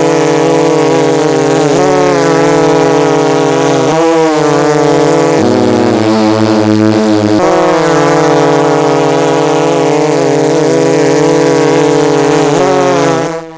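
Monster truck engines running loud and steady, their pitch shifting a few times, with a lower, different tone for about two seconds midway.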